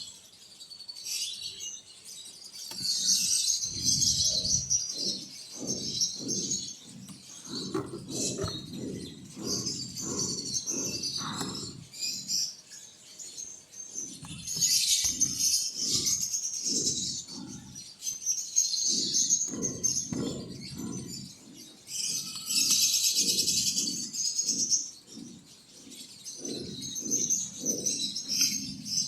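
Quails chirping in high, quick clusters, over a run of soft low knocks and rustles.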